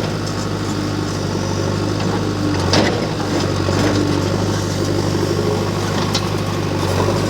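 JCB 3DX backhoe loader's diesel engine running steadily, with a few sharp knocks, the loudest about three seconds in.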